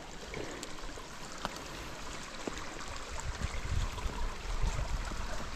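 Steady rain falling through the woods, an even hiss with scattered light ticks of drops.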